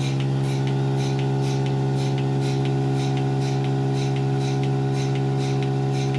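A steady machine hum with a fast, even ticking over it, about three to four light ticks a second.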